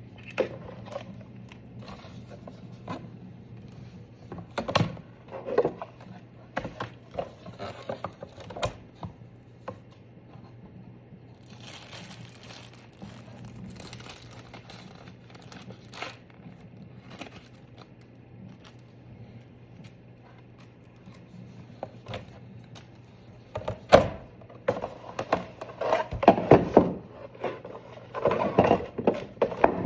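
Objects being handled: scattered knocks, scrapes and clatter over a steady low hum, with one sharp knock about 24 seconds in and a busier run of clatter near the end.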